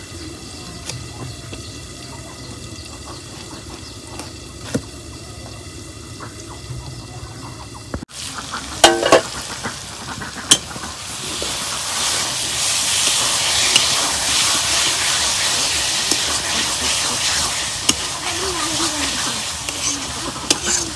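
Chicken pieces frying in hot mustard oil in a metal karahi, being stirred. A few sharp knocks of the spatula on the pan come about a third of the way in, then a loud, steady sizzle starts and keeps going, with occasional clicks of stirring.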